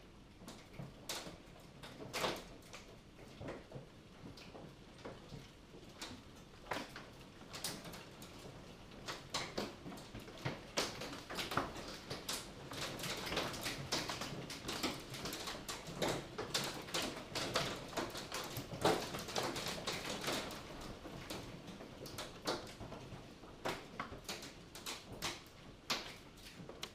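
Hailstones striking hard surfaces in a storm: a rapid, irregular patter of sharp clicks and knocks that thickens into a heavier barrage about ten seconds in and thins out again near the end.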